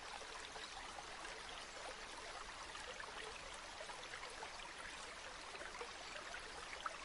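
A river's flowing water, a steady even rush with many small splashes and trickles throughout.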